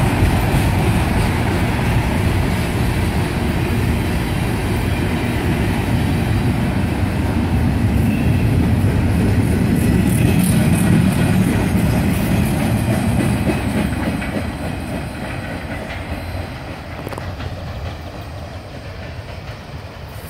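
Manifest freight train's cars rolling past close by, their steel wheels running on the rails in a steady loud rumble. The sound fades away from about fourteen seconds in as the end of the train passes and recedes.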